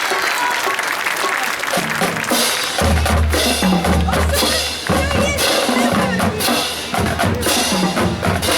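Marching band playing: applause at the start gives way, about two seconds in, to long low bass notes and a drumline with bass drums.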